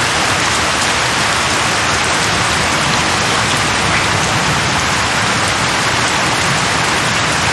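Heavy rain falling steadily, a dense even hiss with no thunder or distinct drops standing out.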